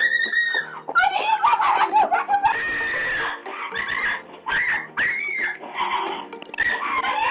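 Raccoons screeching and squealing in a fight: a string of short, high, arching cries, several a second at times, over background music.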